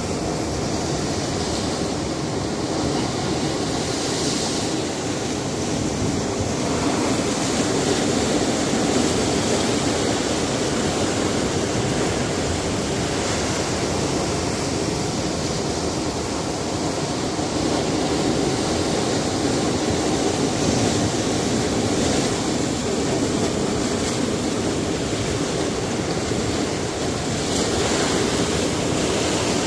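Sea surf washing against a rocky shore: a continuous rush of waves that swells and eases slowly, with brighter splashing surges a few times.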